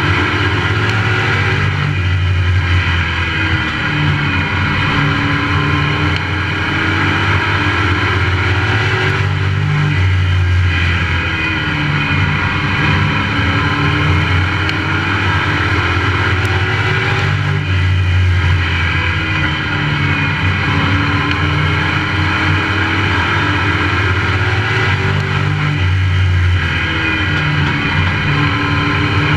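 Onboard sound of a Pro Truck race truck's engine at racing speed. The engine note falls and climbs again in a repeating cycle about every eight seconds, four times, as the driver lifts and gets back on the throttle lap after lap.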